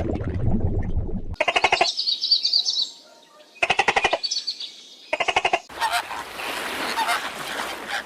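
Bird calls: a few short, harsh, pulsed calls with a high trill between the first ones, then a busier run of calls over noise in the second half. A low rumbling noise from just before fills the first second or so.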